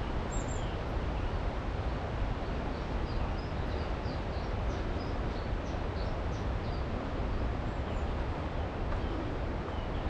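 A songbird chirping a quick run of short high notes from about three to seven seconds in, over a steady rushing noise that is the loudest sound throughout.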